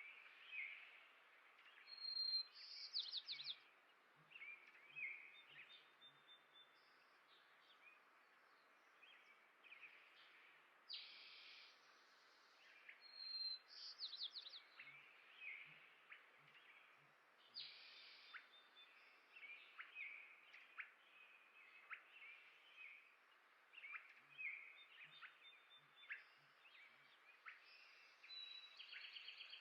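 Faint songbirds chirping and calling, with many short chirps and a few brief trills coming every second or two, over a faint steady background hiss.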